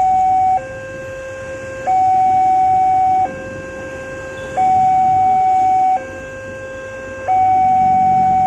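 Electronic two-tone warning alarm of a railroad level crossing, alternating steadily between a lower tone and a louder higher tone, each held about one and a half seconds: the crossing is signalling that a train is approaching.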